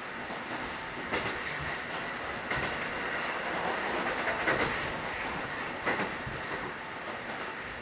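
Kotoden 1080 series electric train (ex-Keikyu 1000 series) running, heard inside the passenger car: a steady rumble and hum with wheels clacking over rail joints every second or two.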